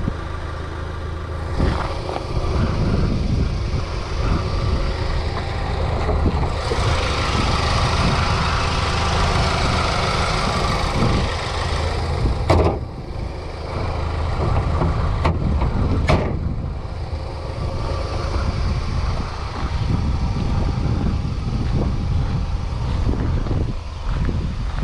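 Steady low rumble of motor vehicle noise, with a few sharp clicks or knocks about halfway through.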